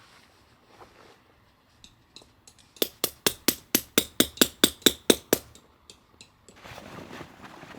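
Hammer driving a tent peg, about a dozen quick, even, ringing blows over two and a half seconds.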